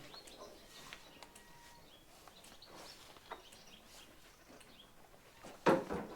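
Small birds chirping intermittently in the background, with one short, loud noise near the end followed by a smaller one.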